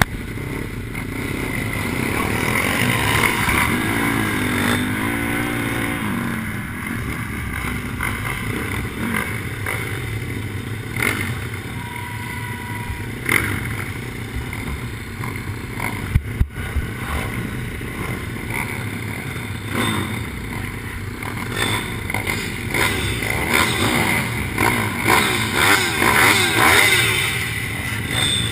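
Pit bike engine revving up and down, heard through the rider's helmet camera, with a sharp knock about sixteen seconds in.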